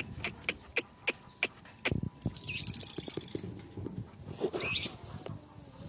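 Lovebirds calling: a quick run of sharp high chirps, then a short burst of shrill chatter about two seconds in and a louder screech near the end.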